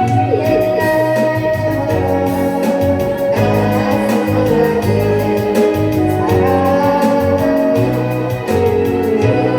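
Instrumental backing music led by an electronic organ or keyboard, with sustained chords over a steady beat.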